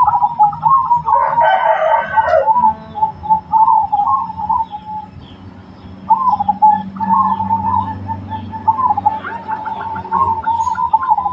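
Perkutut (zebra dove) cooing in repeated rolling phrases. A louder, rougher sound cuts in about a second in and lasts about a second and a half. Faint high chirps of small birds are heard as well.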